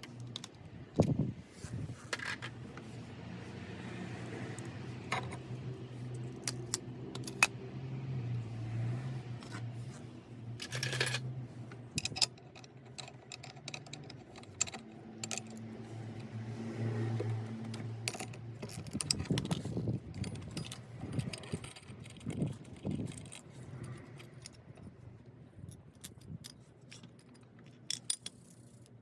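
Metal tools and small metal parts clinking and scraping in irregular sharp clicks, with a low hum that comes and goes, as a scooter's clutch and drive parts are worked on by hand.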